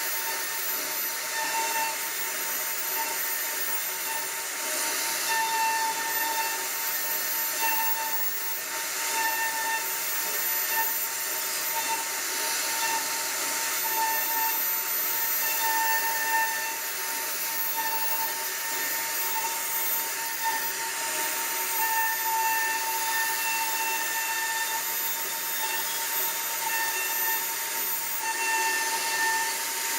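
CNC router spindle running and carving wood: a steady hissing noise with a high whine that grows louder and softer as the bit works through the cut.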